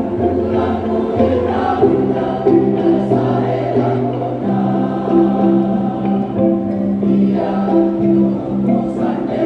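Mixed choir singing in long sustained chords, with a kolintang ensemble (wooden Minahasan xylophones) accompanying; a low note is held for several seconds midway.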